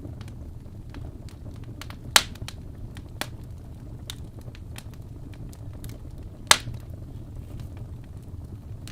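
Wood fire burning in a fireplace: a low steady rumble with scattered small crackles, and two sharp, louder pops of the burning logs, about two seconds in and again about six and a half seconds in.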